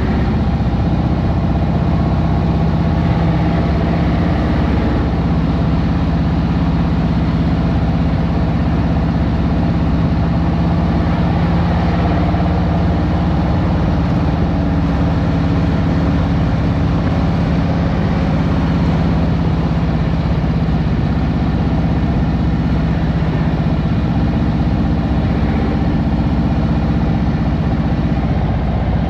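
Harley-Davidson Road Glide Special's Milwaukee-Eight V-twin running steadily at an even pitch, with no hard revving.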